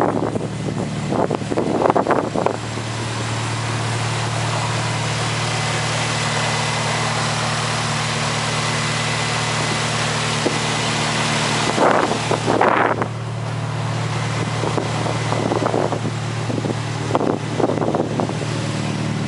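Toyota 3S-GTE turbocharged four-cylinder engine in a Corolla T-Sport running steadily through a Blitz Nur Spec exhaust, with brief louder surges about two seconds in, around twelve seconds and again near the end.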